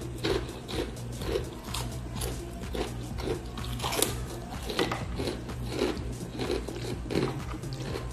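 A person chewing food close to the microphone, with crunchy bites, about two chews a second.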